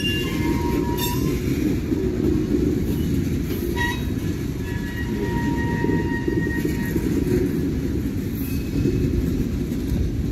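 Freight train of covered hopper cars rolling past: a steady rumble of steel wheels on rail, with faint high wheel squeal now and then and a couple of brief clicks.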